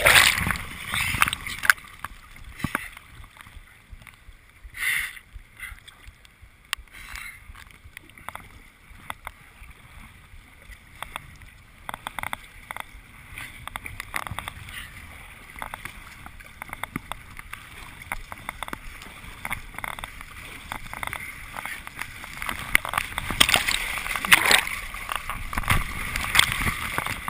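Kayak paddling: water splashing and dripping around the boat, with many small irregular knocks and clicks and a louder stretch of splashing near the end.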